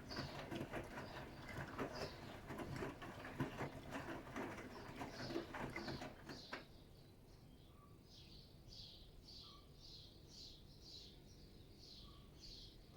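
Bosch iDos Serie 6 WAT286V0 washing machine drum tumbling wet laundry, with water sloshing and small knocks. The drum stops with a click about halfway through. Faint quick high chirps follow, about two to three a second.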